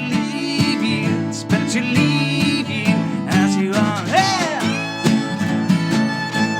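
Live band music without vocals: acoustic guitar strumming under a lead melody line that slides in pitch about four seconds in.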